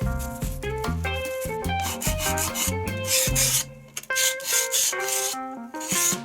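Repeated hissing strokes of wood being sanded by hand, about five strokes starting some two seconds in, over background instrumental music.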